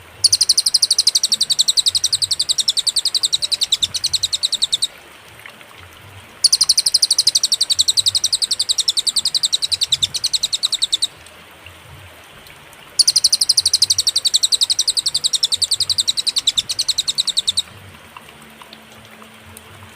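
Recorded song of a cililin: a fast, even trill of high notes. It comes in three bouts of about four and a half seconds, with pauses of about two seconds between them.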